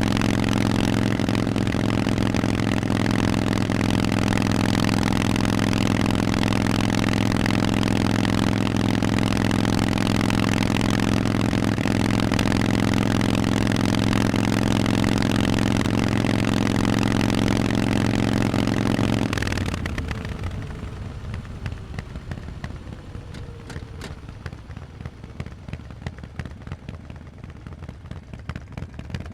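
Harley-Davidson Forty-Eight's air-cooled V-twin idling steadily through Vance & Hines exhausts, then stopping abruptly about two-thirds of the way in. After that only faint clicking remains.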